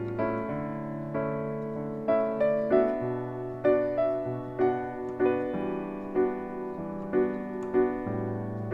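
Piano playing a slow bossa nova tune, with held bass notes and chords under a simple single-note melody.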